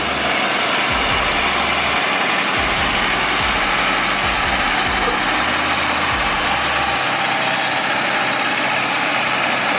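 A vehicle engine running steadily under a loud, even rush of noise.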